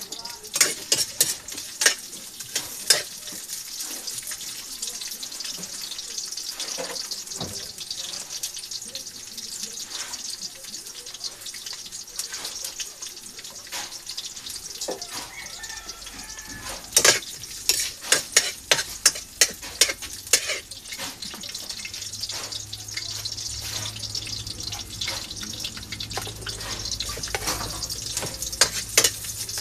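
Water running and splashing in a sink, with bursts of sharp clacks: mussels being washed by hand. A low hum comes in past the middle.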